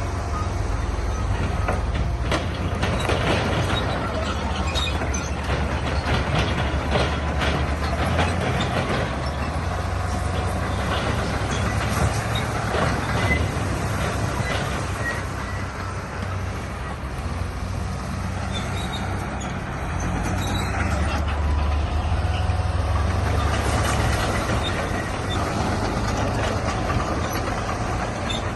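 Crawler bulldozer at work: its diesel engine runs steadily under clanking and squealing steel tracks, with scrapes and knocks of rock being pushed, busiest in the first half.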